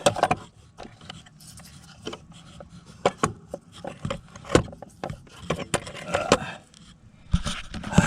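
A recoil starter housing being handled and lined up against a snowmobile engine: irregular knocks, clicks and scraping of parts.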